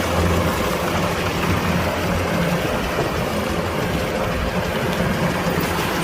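Kubota DC-105X combine harvester's engine running steadily.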